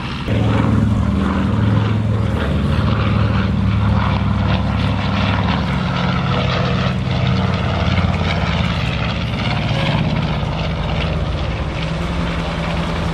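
Propeller airplane engine running with a steady drone, growing louder about half a second in and holding through.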